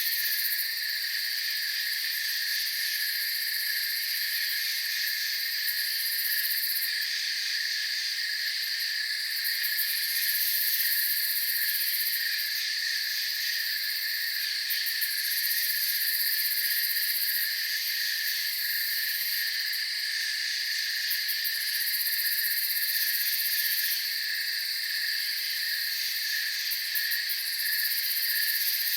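Night chorus of crickets and other insects, a steady, high-pitched trilling, with a shriller upper layer that swells and fades every few seconds.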